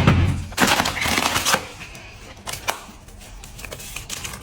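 A heavy thud, then about a second of rough crunching and scraping noise, and a single sharp knock about two and a half seconds in.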